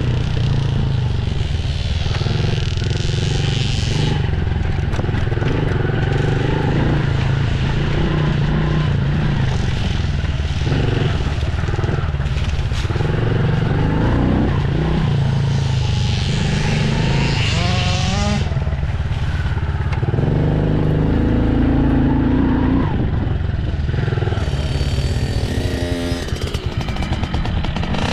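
Dirt bike engine running, its pitch rising and falling as the throttle is worked, with a few clear revs late on.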